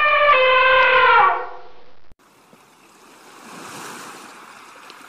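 A sheep's long, high bleat that ends about a second in, dropping in pitch as it fades. After a sudden cut, a faint steady outdoor hiss.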